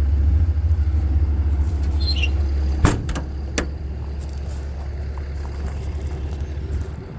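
Diesel service truck idling with a steady low rumble. About two seconds in there is a short high squeak, then a sharp knock and a second click; after the knock the rumble is quieter.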